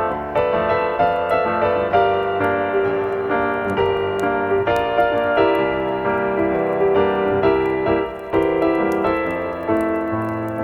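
Slow, calm piano music: single notes and chords struck about every half second and left to ring out.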